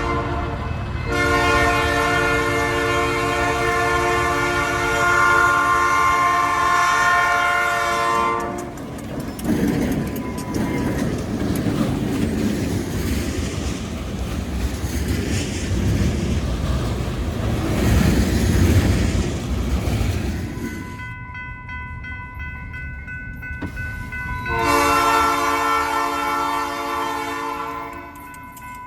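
Freight locomotive's horn blowing a short blast, then a long one lasting about seven seconds. The train then rumbles and clatters past for about twelve seconds, and the horn sounds again near the end.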